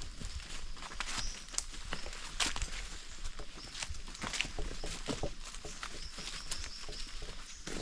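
Footsteps on the forest floor, irregular crunching and rustling of leaf litter and twigs as people walk.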